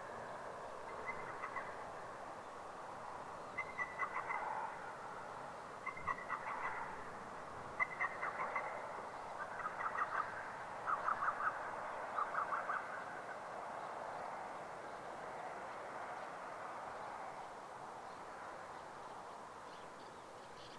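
Recorded lesser cuckoo (hototogisu) call played faintly over a town disaster-prevention radio's outdoor TOA loudspeaker as the 6:30 time chime. It comes as several short, quick phrases of notes over the first dozen seconds, over steady background noise.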